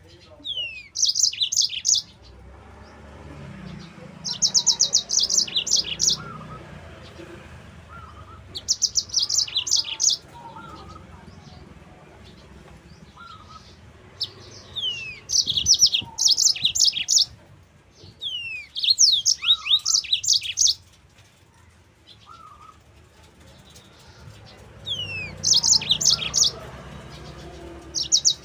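Yellow-fronted canary (Mozambique canary) singing in repeated bursts of rapid, high trills mixed with quick downward-sliding whistles. Each burst lasts about a second and comes every few seconds, with softer, lower chirps in between.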